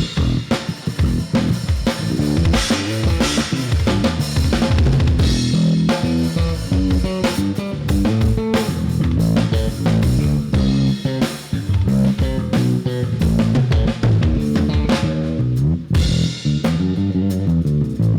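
A band playing an instrumental passage without vocals: drum kit with bass drum and snare keeping a steady beat under a moving bass guitar line and guitar.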